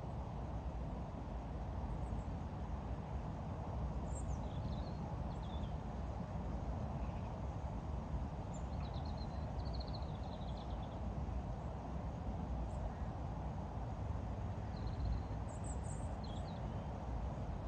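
Steady low outdoor rumble with small birds chirping briefly now and then, a few short high calls at a time.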